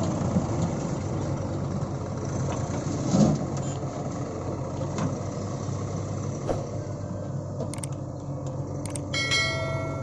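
Heavy diesel machinery running steadily, with a sharp knock about three seconds in and a few lighter clicks. A high-pitched tone comes in near the end.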